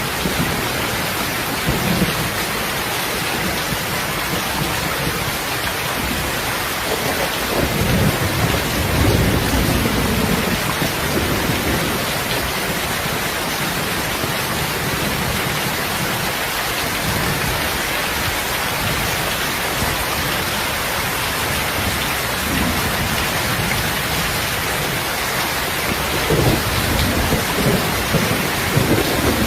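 Steady rain falling, a dense, even hiss, with low rumbling swells about eight seconds in and again near the end.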